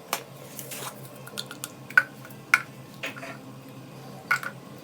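Kitchen utensils and dishes clinking and knocking: a handful of separate strikes spread out, a couple of them ringing briefly.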